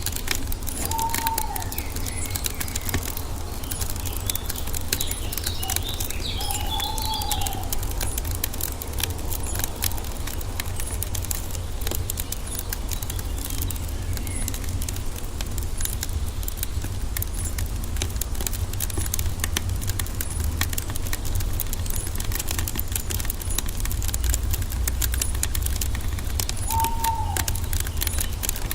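Wood fire crackling steadily over a low rumble, with forest birds calling: a short arched whistle three times (about a second in, around seven seconds, and near the end) and a brief run of higher chirps between them.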